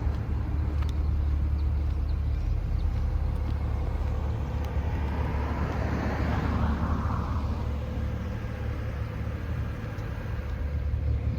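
2010 BMW 135i's twin-turbo inline-six engine running steadily with a deep low hum. A broader rush of noise swells and fades around the middle.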